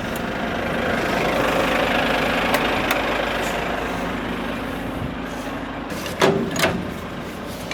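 Semi truck's diesel engine idling steadily in neutral, with a few short clicks and knocks.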